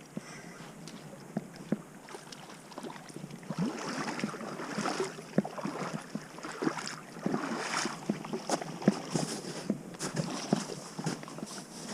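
Water splashing and sloshing with irregular small knocks and clicks, getting louder about three and a half seconds in.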